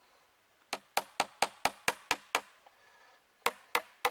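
Small nails being hammered into wood: a run of eight quick, sharp blows at about four a second, a short pause, then another run of blows starting near the end.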